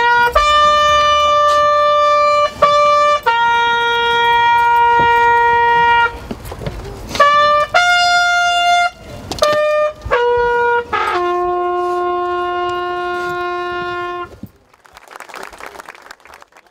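Bugle call of slow, held notes stepping between a few natural-horn pitches, ending on a long low note, as sounded for military funeral honours after a rifle salute.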